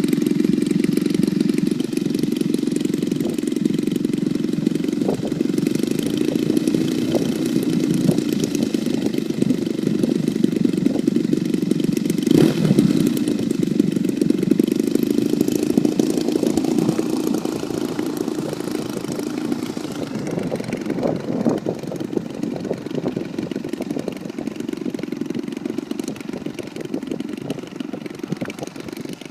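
Engine of a CAP 580 radio-controlled model airplane running steadily, growing quieter over the last several seconds.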